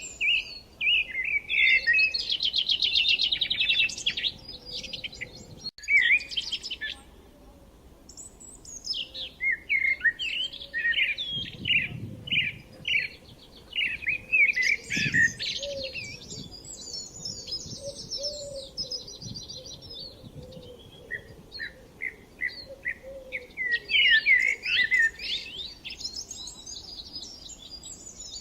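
Small birds chirping and twittering in rapid, high-pitched phrases, with a short lull about a third of the way in.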